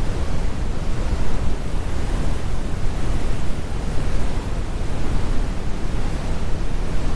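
Steady synthetic brown noise: a continuous deep rumble, its energy heavy in the lows with the high frequencies rolled off, with no events or changes.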